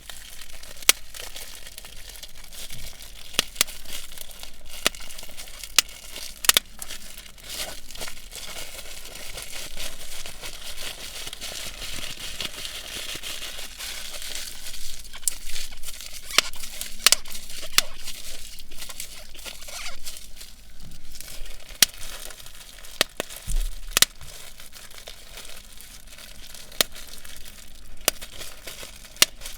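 Plastic bubble wrap being squeezed and crinkled, with sharp pops at irregular intervals as the bubbles burst.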